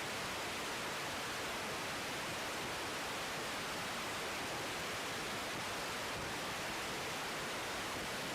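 Steady, even hiss of airband radio static between air traffic control transmissions.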